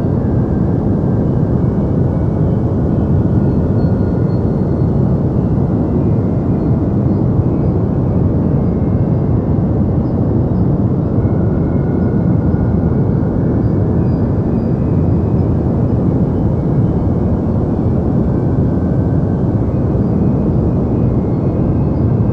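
Continuous deep white noise for sleep: an even, unchanging rush that is heavy in the bass and dull rather than hissy, with little in the treble.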